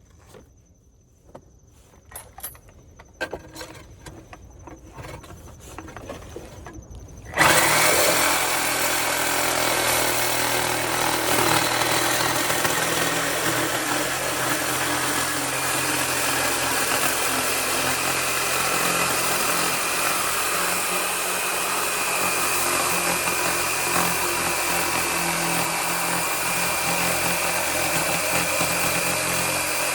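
Reciprocating saw (Sawzall) cutting through the steel exhaust flange, starting suddenly about seven seconds in after a few light clicks and then running steadily, with a high steady tone joining about halfway through the cut.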